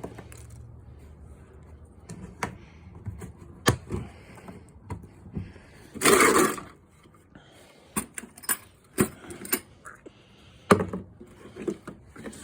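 Scattered clinks, taps and knocks of tools and a drain pan being handled under a car during an oil change, with one louder noisy scrape about halfway through.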